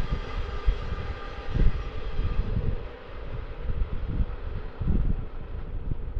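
Container freight train receding along the track: its rolling rumble fades, and a faint high ringing from the wheels on the rails dies away in the first couple of seconds. Uneven low gusts, partly wind buffeting the microphone, run under it.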